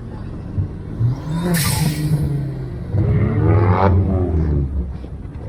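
A car engine running, with a short rush of air noise, then revved hard about three seconds in, its pitch climbing and falling back.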